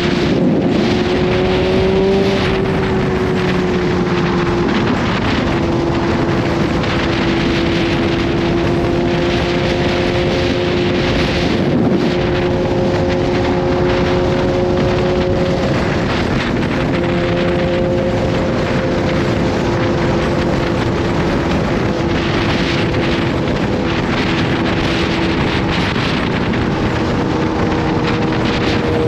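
Kawasaki Z H2's supercharged inline-four engine running at a steady cruise, its pitch holding nearly constant, with wind rushing over the microphone.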